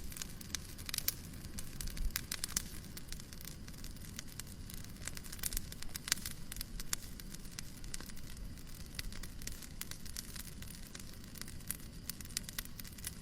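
Fireplace crackling: irregular sharp pops and snaps over a steady low noise.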